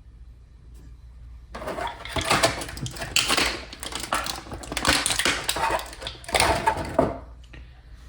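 Plastic packaging crinkling and rustling as it is handled, a dense run of quick crackles and scrapes lasting about five seconds.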